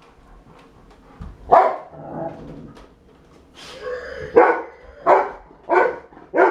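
Rottweiler barking: one bark about a second and a half in, then a run of four barks about two-thirds of a second apart in the second half.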